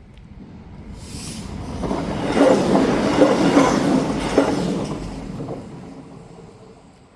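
A train passing over a single-track level crossing. The sound swells, peaks about two to four seconds in with rhythmic clacks of wheels over rail joints, then fades as the train moves away.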